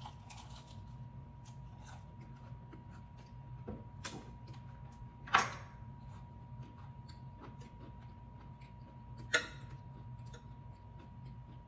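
Close eating sounds: chewing of fried shrimp with many small mouth clicks and smacks, and two sharper clicks about five and nine seconds in, the second a metal fork against the ceramic plate.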